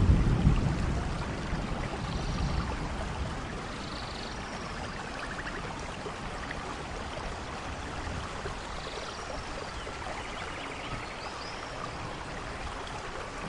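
Steady rain falling, with a low rumble of thunder at the start that dies away over the first couple of seconds. Faint chirping calls are heard now and then through the rain.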